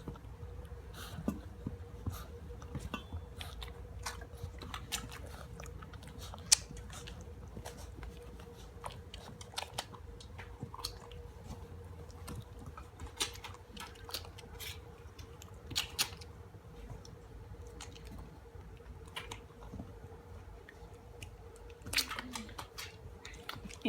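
Chocolate Labrador puppies crunching dry kibble: many irregular, sharp crunches throughout, described as loud.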